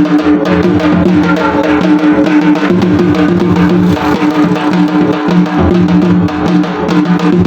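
Dhol drumming: dense, rapid beats played continuously, with steady sustained melodic tones underneath.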